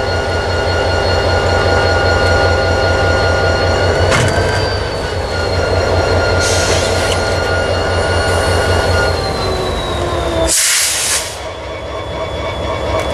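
EMD SD45 diesel locomotive running at idle close by, its engine throb and whine lifting slightly about four seconds in and easing off again near ten seconds. Two short bursts of air hiss come through, the second louder, about three-quarters of the way in.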